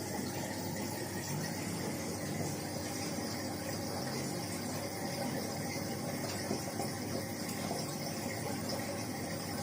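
LG FHT1207SWL 7 kg direct-drive front-load washing machine running mid-cycle: a steady hum and whine over a continuous rushing noise.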